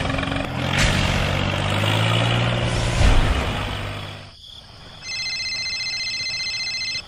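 A loud rumbling vehicle noise with a low hum and a few crashes, fading out about four seconds in, over the toy train tumbling off its track. After a short pause comes a steady high electronic ring, pulsing slightly, from a mobile phone.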